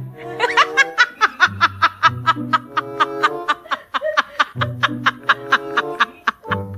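Rapid, rhythmic snickering laughter, about five or six short pulses a second, over background music.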